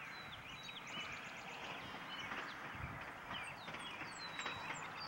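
Birds singing: quick runs of short chirps and whistled notes, some sliding in pitch, over a steady outdoor background hiss.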